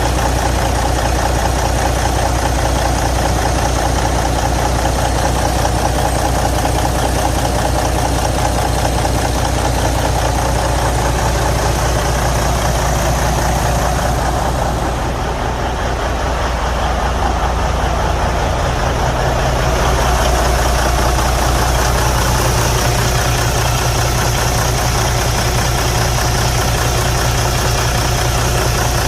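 Detroit Diesel DD15 inline-six diesel engine idling steadily; the engine has a broken cylinder liner and high crankcase pressure. The sound dulls for a few seconds around the middle, then comes back.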